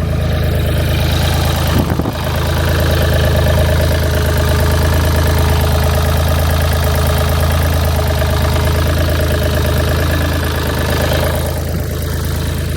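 Deutz air-cooled diesel engine of a Gehl 4635 skid steer idling steadily on new engine mounts. It is still a little shaky at idle, which the owner thinks could be a plugged fuel filter, a failing injector or injection pump starving the injectors of fuel at idle.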